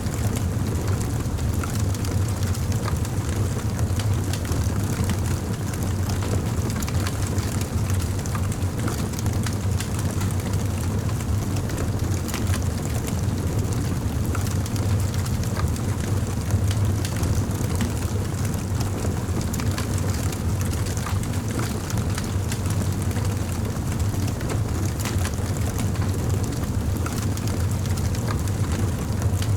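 Campfire burning: a steady low rumble from the flames with scattered small crackles and pops throughout.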